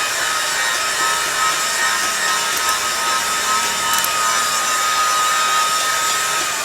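A power tool running steadily, a constant whine over a noisy grinding or cutting sound, the whine dipping slightly near the end.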